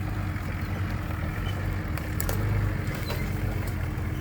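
Four-wheel drive's engine running steadily at low revs, with a few light clicks about two to three seconds in.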